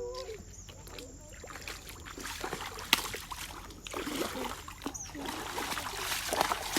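Lake water splashing and sloshing, getting busier from about two seconds in, with one sharp click a little before the three-second mark.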